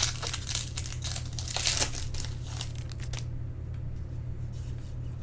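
Wrapper of a 2010 Bowman Draft trading card pack being torn open and crinkled by hand, dense crinkling for about three seconds, then only light rustling.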